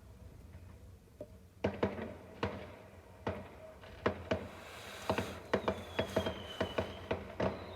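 Fireworks popping and crackling in an irregular series of sharp cracks that come faster toward the end. A faint high whistle, falling slightly in pitch, joins them about two-thirds of the way in.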